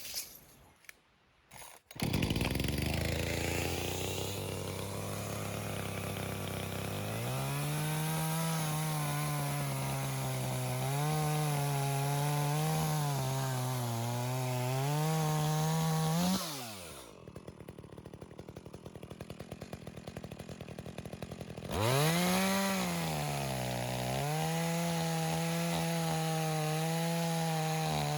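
Two-stroke chainsaw running at high revs, its pitch dipping and rising as it works through wood. About halfway it drops to a ticking idle for a few seconds, then revs back up and holds steady.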